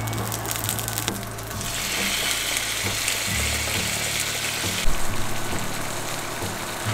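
Food sizzling in a hot frying pan, the sizzle swelling about one and a half seconds in and falling back about five seconds in, with a sharp clack as it drops, over soft background music.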